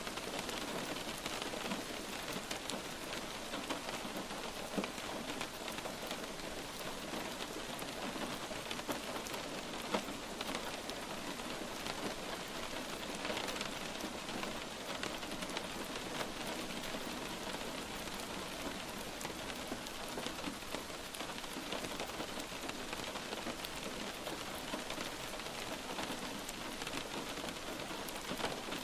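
Light rain falling steadily, a dense patter of drops with a few louder single drops striking a surface.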